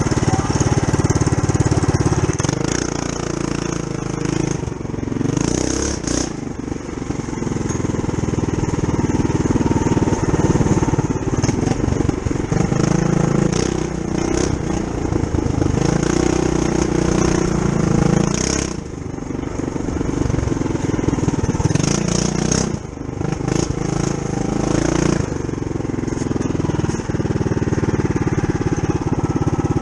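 Tillotson 212cc single-cylinder engine of a Trail Master MB200-2 mini bike, governor removed, running under load on a trail ride, its revs rising and falling as the throttle changes, with brief drops in the engine note a few times.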